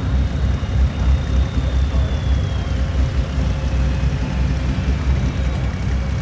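A pulling tractor's engine running steadily, a deep rumble with a faint high whine that drops in pitch about three seconds in.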